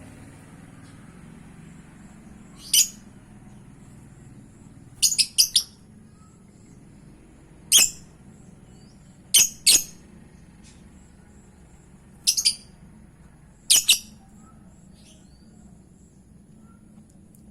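Lovebird calling in short, sharp, high chirps, about seven bursts spread over the stretch, some single and some in quick doubles or triples, meant as a lure call to make another lovebird answer.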